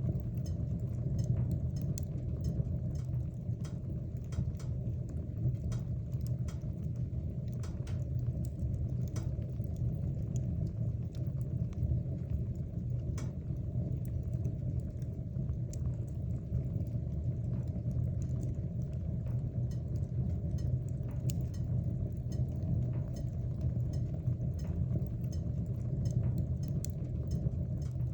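Wood fire burning in a fireplace: a steady low rumble of flame with scattered sharp crackles and pops from the burning wood.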